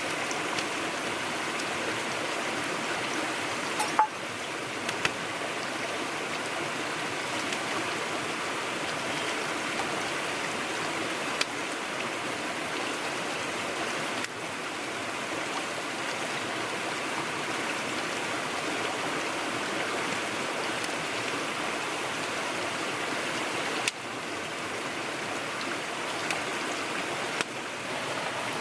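Steady rushing noise of running water, even and unbroken apart from a few faint clicks and brief dips.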